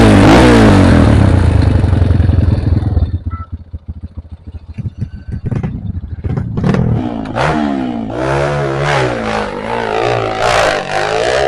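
Trail motorcycle engine revving loudly, its pitch rising and falling. About three seconds in it drops back, leaving a few seconds of clattering knocks. From about seven seconds in it revs up again.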